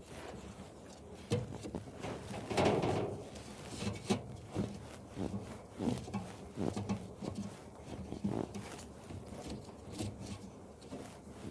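Irregular knocks, clicks and rustling from the dryer's blower wheel and housing being handled while compacted lint is pulled away, with a louder rustling scrape about two and a half seconds in.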